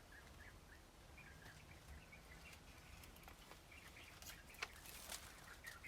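Faint, scattered short bird chirps, with a few light clicks in the second half.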